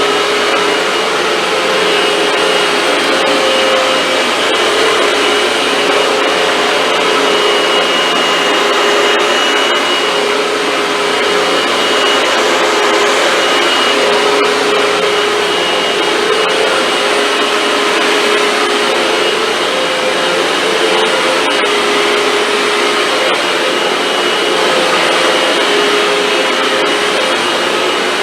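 Hoover WindTunnel 2 bagless upright vacuum running steadily: rushing airflow with a constant motor whine.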